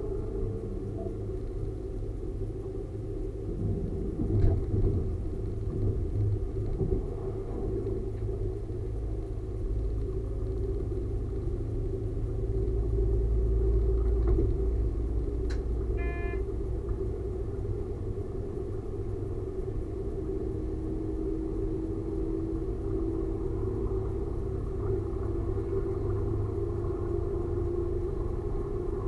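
Diesel railcar running along a branch-line track, heard from the driver's cab: a steady rumble with a running hum, a few knocks about four to seven seconds in, and a brief high tone about halfway through.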